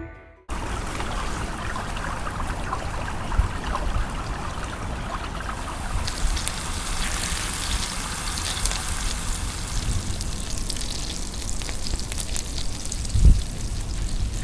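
Rain falling, a steady hiss with many small ticks over a low rumble, and a single thump near the end.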